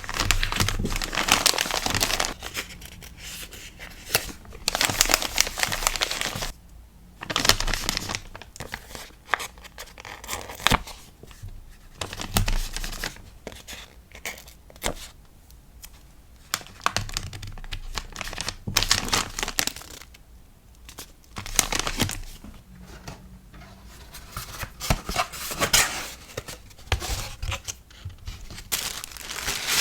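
Packing materials handled close up while an order of stickers is packed: repeated tearing and crinkling in bursts of a second or two, with scattered small clicks and taps between them.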